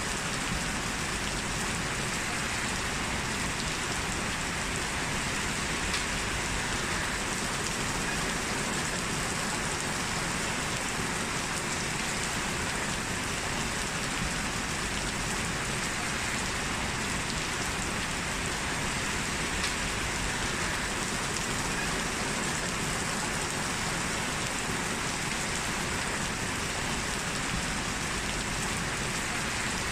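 Steady rain falling, a constant even hiss of rainfall without breaks or thunderclaps.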